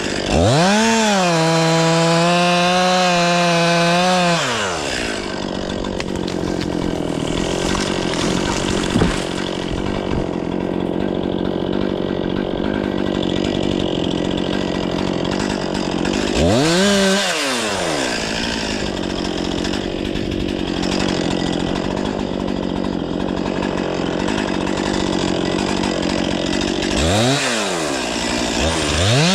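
Stihl 500i fuel-injected two-stroke chainsaw at full throttle, then settling to a lower, steady note as it cuts through wood for long stretches. Twice the throttle is briefly let off and opened again, and near the end it revs back up high.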